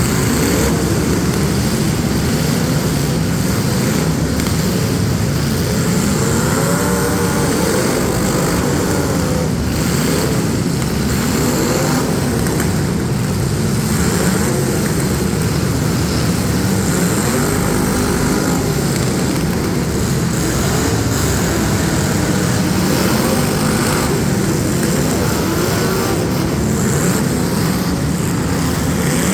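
Several demolition derby street stock cars' engines running hard at once, their pitch rising and falling as drivers rev, with occasional knocks that may be car-on-car hits.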